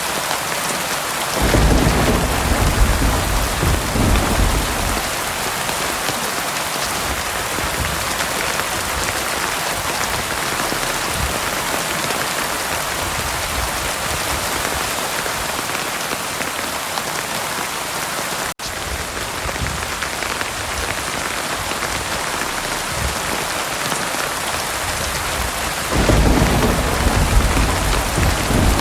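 Heavy rain falling steadily in a thunderstorm. About a second and a half in, a low thunder rumble rolls for a few seconds, and a second rumble starts near the end. Partway through there is a split-second break in the sound.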